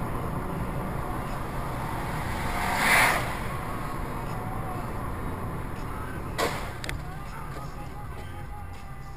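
Steady car engine and road noise heard from inside the car, with a whoosh that swells and fades about three seconds in and a sharp click about six and a half seconds in.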